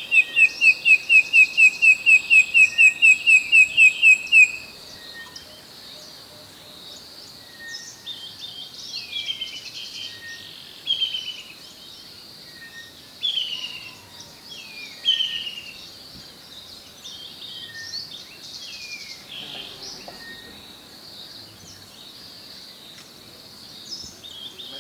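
Wild birds calling. A fast run of loud, repeated whistled notes, about five a second, lasts for the first four seconds or so, followed by scattered short falling calls over a steady high-pitched hiss.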